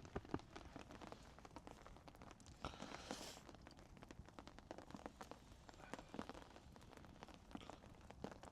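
Quiet, rain-soaked camp: faint, irregular drips and taps of rain falling around the camp, with a brief rustle about three seconds in.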